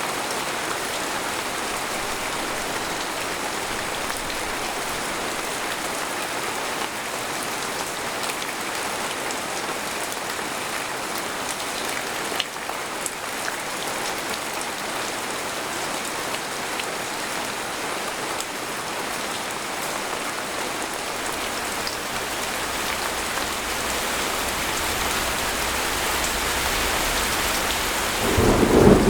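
Steady heavy rain pattering on a tent, with a rumble of thunder that builds in the last few seconds and peaks loudly just before the end.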